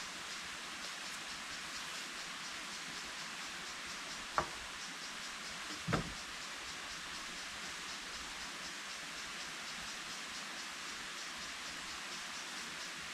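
Steady rainforest ambience: a continuous hiss with fine, fast insect chirping, broken by two short sharp knocks about four and six seconds in.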